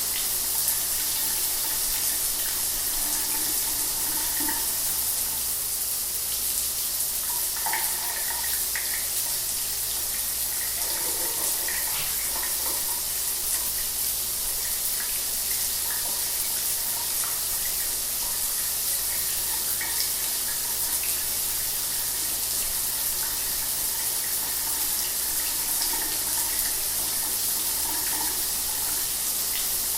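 Shower water running steadily: an even hiss of spray with faint splashing here and there.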